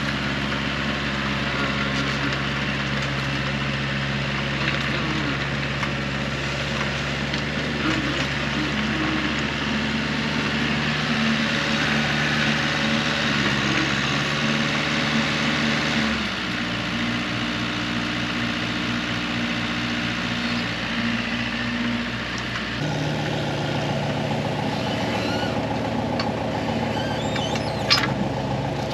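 Heavy machine's engine running steadily. Its pitch and tone shift about 16 and 23 seconds in as the engine speed or load changes. A sharp click comes near the end.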